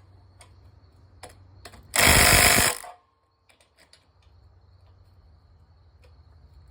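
Impact wrench fired in one short burst of just under a second, about two seconds in, running down the engine mounting bolts. A few light clicks of tool handling come before it.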